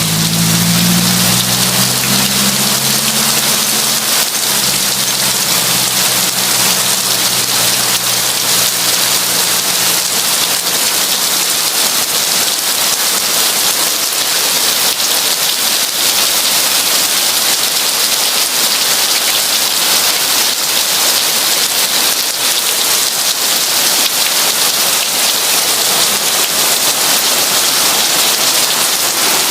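Heavy rain falling steadily, a dense even hiss. A low rumble under it fades away over the first ten seconds or so.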